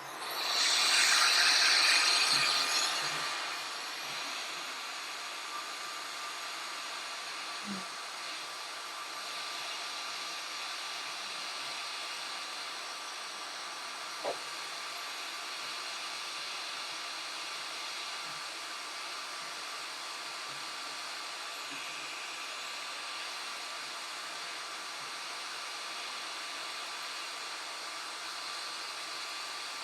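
Hot air rework station blowing steadily, louder for the first few seconds, with a faint steady whine under it and a couple of small clicks. It is heating the iPhone 7 Plus logic board to replace the Tristar charging chip.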